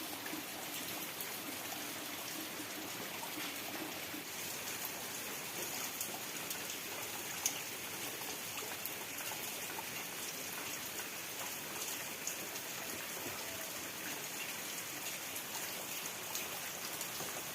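Steady rain falling, individual drops pattering on a surface, with one sharper drip tick about seven and a half seconds in.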